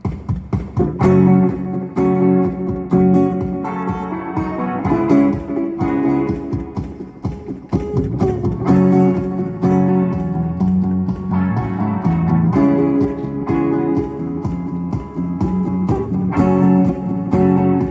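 Electric guitar playing an instrumental passage without vocals: chords strummed in a steady rhythm.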